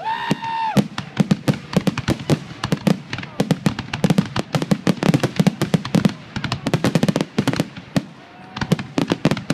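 Fireworks going off in a rapid, crackling barrage of sharp bangs, many a second, thinning briefly near the end before picking up again. A short high-pitched whistle or cry sounds right at the start.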